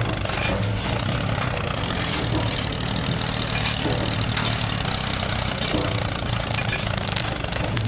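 A motor running steadily at an even low hum, with faint rattles and clicks over it.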